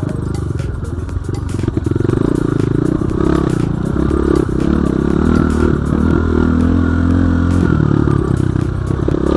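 BSE J1 dirt bike engine running under load, its revs rising and falling, with scattered clatter.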